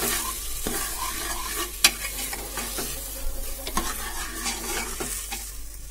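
Rice and onion-tomato masala frying in oil in a pressure cooker, sizzling steadily while a steel ladle stirs it, scraping and clinking against the pot; the loudest clink comes about two seconds in.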